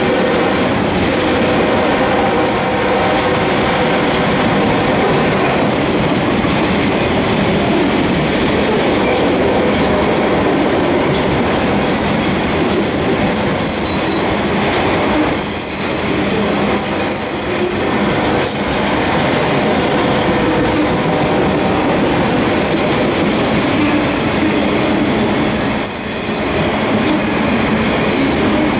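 Union Pacific autorack freight train rolling past: a steady loud rumble and clatter of wheels on rail. Brief high-pitched wheel squeals come and go, mostly in the second half.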